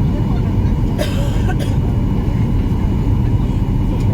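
Steady low rumble of a Boeing 737-800's engines and airflow heard inside the passenger cabin, with a brief rattle about a second in.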